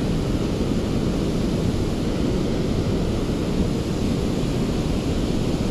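Steady wind rumble buffeting the microphone, a low rushing noise without any engine note.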